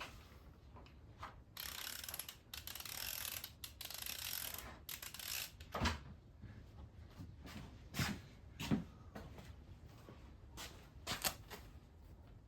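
Hand tools working on an engine block: a ratchet wrench clicking rapidly for a few seconds, then several sharp separate metallic knocks and clicks.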